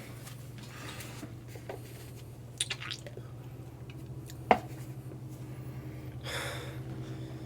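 Steady low hum with a few small clicks, and one short sharp knock about four and a half seconds in; a brief breathy rush near the end.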